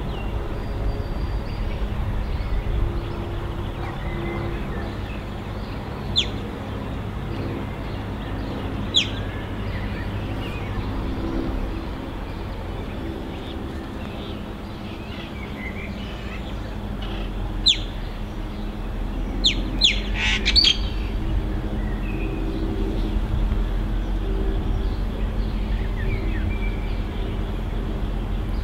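Birds giving short, sharp chirps several times over the low, steady drone of an approaching diesel locomotive, which grows louder in the last third.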